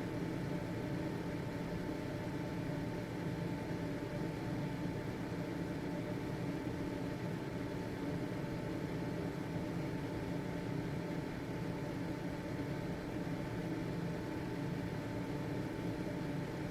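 Household exhaust ventilation fan running steadily: an even whirring hum with a faint high tone above it.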